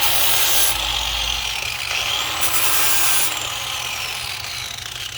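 Angle grinder with a flap disc grinding paint off a metal hamper frame, its motor pitch dipping and recovering as the disc is pressed into the metal.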